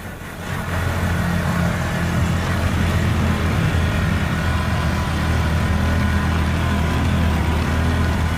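Motorbike engine running steadily under way, a low hum that grows louder in the first second and then holds steady.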